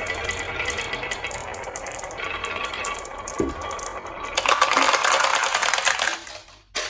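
Glass marbles rolling and clicking along a HABA wooden marble run, with a louder, dense clatter of marbles from about four and a half seconds in to about six seconds, then one last short clatter near the end.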